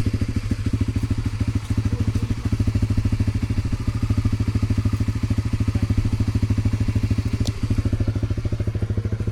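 Yamaha R15's single-cylinder four-stroke engine idling steadily through its stock exhaust, an even putter of about ten beats a second. One sharp click about three-quarters of the way through.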